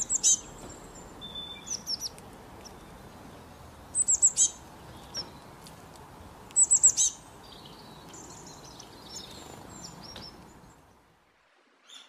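Small songbird chirping: high, quick chirps in runs of three or four, every couple of seconds, over a steady background hiss. The sound cuts off near the end.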